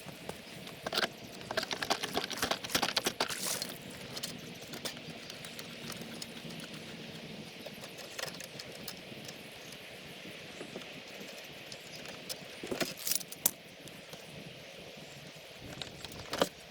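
Fishing platform and footboard parts clattering and clicking as they are handled and taken apart, sped up to three times normal speed, with bursts of rapid clatter in the first few seconds, again about 13 seconds in and near the end.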